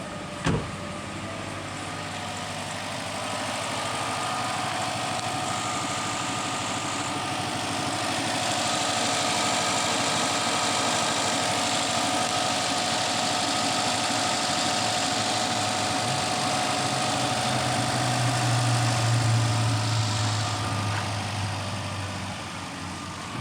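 Subaru Forester's flat-four boxer engine idling steadily, run to show it works. A sharp click sounds about half a second in, and a low hum joins for several seconds near the end.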